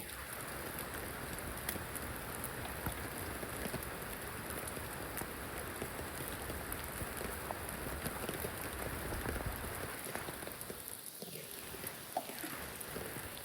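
Steady rain falling, with many individual drops ticking throughout.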